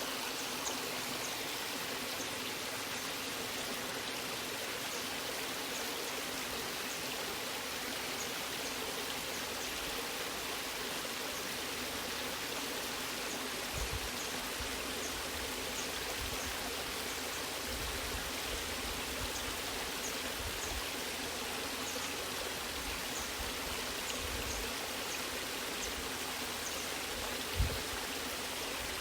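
A natural waterfall rushing with a steady, even noise. Two brief low thumps break through, one about halfway and a louder one near the end.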